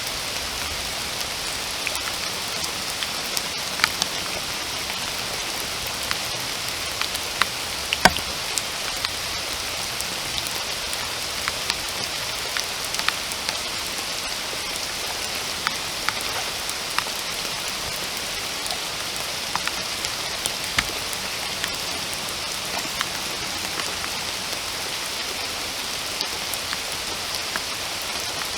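Steady rain falling in a forest, an even hiss with scattered sharp drips and drop ticks, the loudest about eight seconds in.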